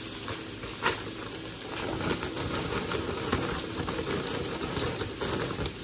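Food sizzling in a frying pan, with a sharp click about a second in and light clatter of kitchen utensils.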